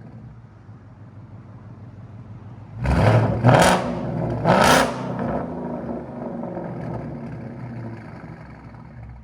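2024 Ford Mustang GT's 5.0L Coyote V8 idling through a Roush H-pipe and straight pipes (rear mufflers deleted, stock cats), blipped twice about three and four and a half seconds in, then dropping back to a loud, rumbling idle.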